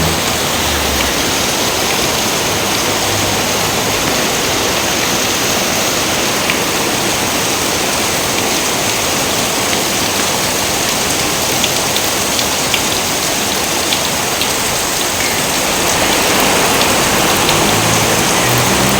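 Steady rain falling hard, an even hiss with scattered individual drop ticks.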